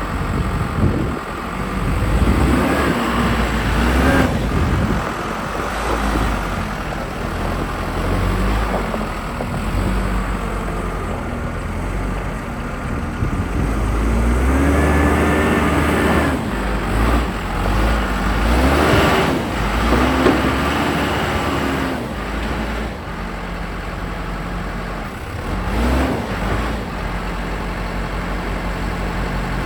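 1998 Case 580 Super L backhoe's diesel engine running, its pitch rising and falling several times as it loads up and revs while the loader and backhoe are worked, with a few brief clunks.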